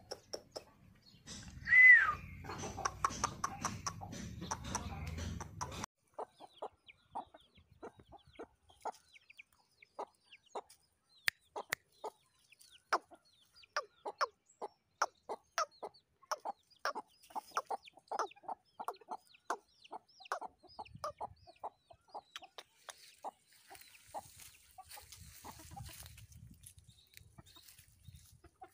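Aseel chickens clucking in many short, sharp clucks, with one loud call about two seconds in.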